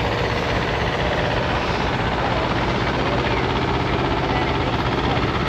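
A steady low engine drone over outdoor noise.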